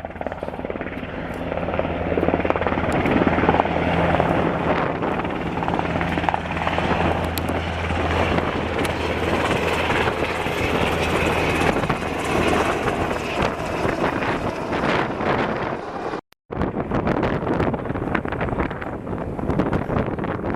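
UH-60 Black Hawk helicopter running, its rotor noise loud and steady with a low hum that fades out about twelve seconds in. The sound cuts out briefly about sixteen seconds in.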